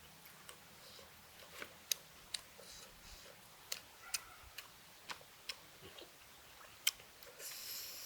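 A person chewing a mouthful of food close to the microphone: quiet, irregular wet mouth clicks and smacks, with a brief hiss near the end.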